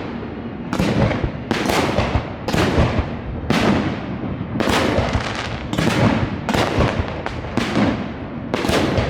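Fireworks shells bursting in quick succession, about one or two booms a second, each boom trailing off.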